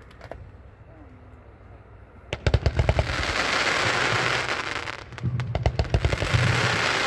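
A 36-shot consumer fireworks cake, Electric Dreams, firing. After about two seconds of quiet comes a quick string of launch bangs and then a long spell of crackling. A second volley of bangs and crackling follows about five seconds in.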